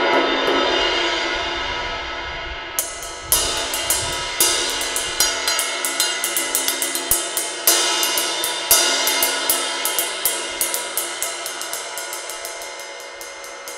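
Zildjian 20-inch K Custom Ride cymbal, its crack ground and smoothed out, being played for a sound test: a ringing wash dies away, then from about three seconds in it is struck again and again, several quick strokes a second over a sustained shimmer that slowly fades near the end.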